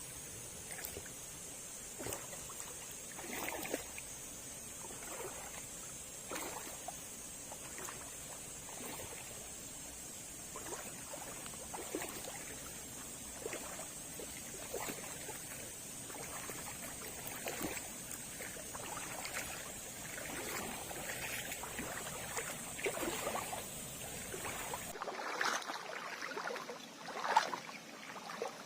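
Water splashing and trickling irregularly at a small jungle waterfall, under a steady high insect drone. The drone stops abruptly near the end, and the water sounds grow louder.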